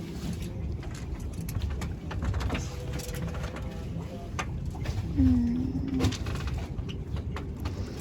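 Wind buffeting the microphone and water rushing under a sailing catamaran, a steady low rumble with scattered clicks. A short low hum-like tone sounds about five seconds in.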